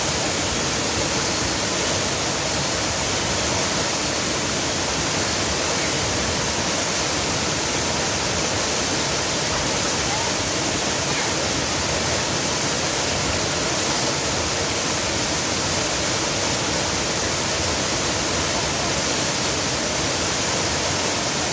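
Rushing water: a steady, unbroken roar of flowing water, even in level throughout.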